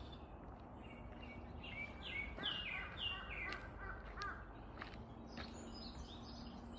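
Wild songbirds calling: one bird gives a run of about six descending, slurred notes in the middle, with high thin chirps from others near the start and end, over a steady background hiss.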